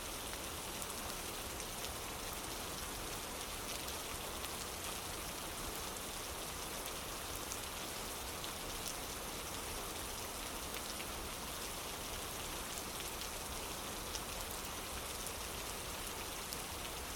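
Steady rain falling on a wooden porch: an even, unbroken hiss with scattered small drop ticks.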